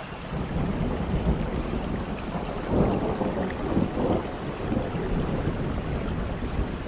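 Steady rain with a low rumble of thunder that swells about three seconds in.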